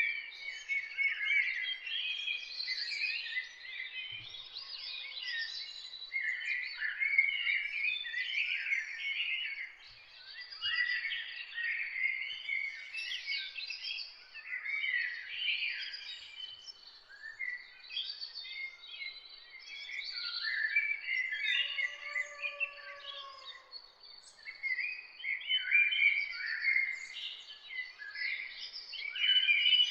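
A chorus of several songbirds singing and chirping, calls overlapping almost without pause, with a faint steady high whine underneath. About two thirds of the way through, a lower, drawn-out note rises and falls once.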